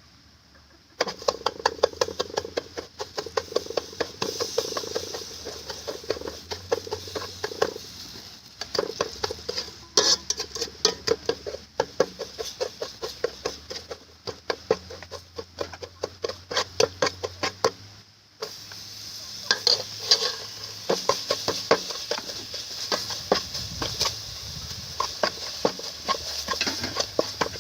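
Stir-frying: a metal spatula or ladle clattering and scraping against a pan in quick, irregular strokes over a steady sizzle. The sound breaks off briefly about 18 seconds in, then resumes.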